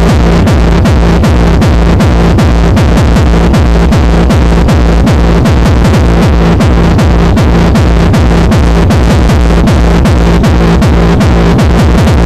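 Loud techno played through a free-party sound system: a fast, steady kick drum of about three beats a second under dense, distorted electronic sound.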